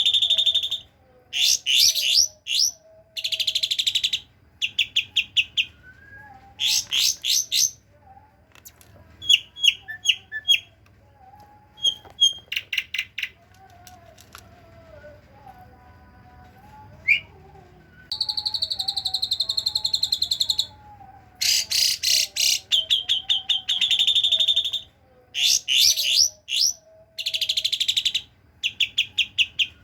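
Javan pied starling (jalak suren) singing a bird-keepers' training song that mimics cililin and kapas tembak calls. It gives repeated one-to-two-second bursts of fast, high, rising chattering notes, with a quieter gap in the middle and a longer buzzy phrase about two-thirds of the way through.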